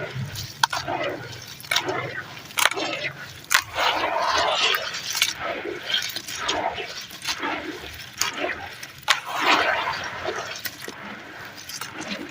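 Crunchy ash being crushed and rubbed: irregular gritty swishes with scattered sharp crackles.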